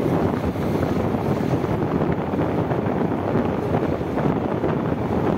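Steady wind rushing over the microphone of a moving motorcycle, mixed with the bike's engine and road noise.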